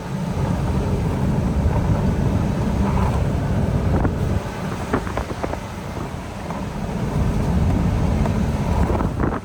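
Jeep Wrangler driving with its doors off: steady low road and engine rumble, with wind buffeting the microphone through the open door openings. A few light clicks or knocks in the middle.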